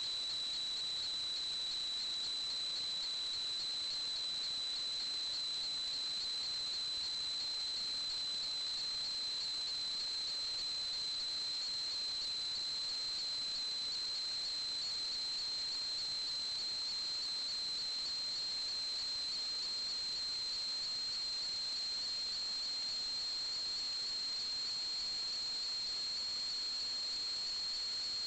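A steady, unbroken high-pitched whine over a constant hiss, its pitch creeping very slightly upward.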